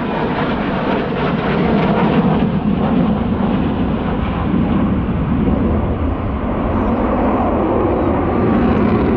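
Aircraft flying over with steady, loud engine noise.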